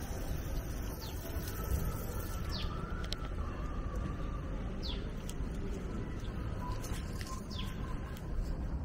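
A bird calls several times, short high chirps sliding downward, about every two to three seconds, over a steady outdoor rumble. In the first couple of seconds, water from an outdoor rain shower head is splashing, then it fades.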